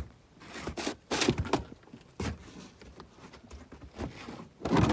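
Scrapes and knocks of things being handled and dragged in a pickup truck bed: several short scrapes in the first half and a louder, longer scrape near the end, which scratches the truck's window.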